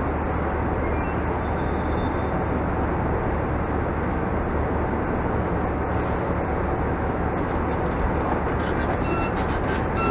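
Steady rumble of a passenger train standing or moving alongside, with a constant low hum underneath. Near the end come a few sharp clicks and faint high ringing tones.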